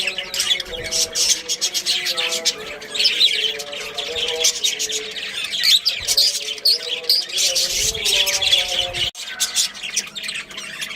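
Budgerigars chirping and chattering: a dense, rapid stream of short high chirps over a lower warbling murmur, with a sharp break about nine seconds in.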